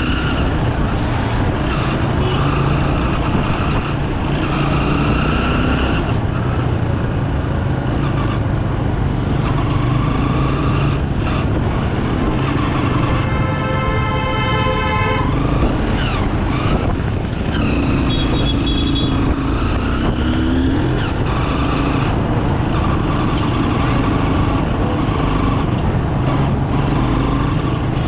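Single-cylinder engine of a 2008 Bajaj Pulsar 200 motorcycle running while riding through traffic, its pitch rising and falling with the throttle. About halfway through, a vehicle horn sounds for about two seconds.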